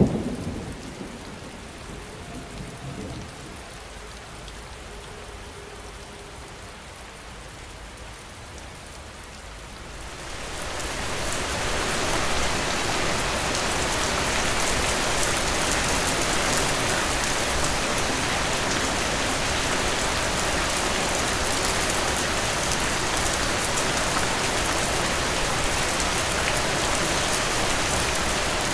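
Rain falling, at first fairly soft as the rumble of a thunderclap dies away. About ten seconds in it builds into heavy, steady rain.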